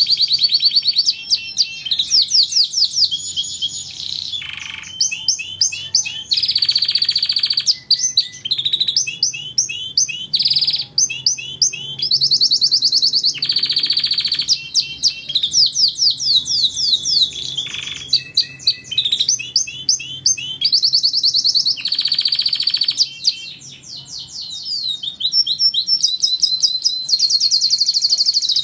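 Domestic canary singing a continuous song of fast trills and rapidly repeated notes, switching to a new phrase every second or two.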